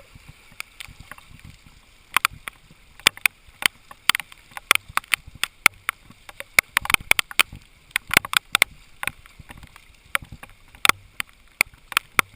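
Irregular sharp clicks and taps, sometimes several a second and sometimes spread out, over a faint low rumble.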